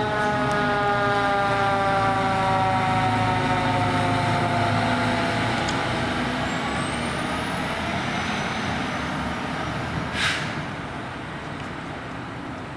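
Fire truck's siren with a rich, several-toned sound sliding slowly down in pitch and fading over the first half, over steady heavy-vehicle engine and road noise. A brief sharp hiss about ten seconds in.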